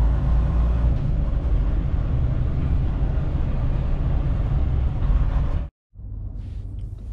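Steady engine and road rumble inside a semi-truck's cab while it drives. The sound cuts off suddenly about six seconds in, and a quieter low hum follows.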